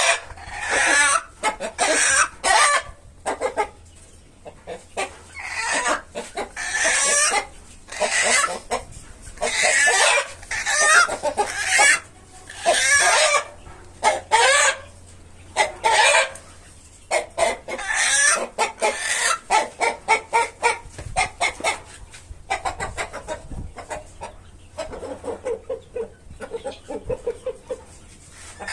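Australorp chickens clucking and squawking, loud calls following one another about every second, growing softer near the end.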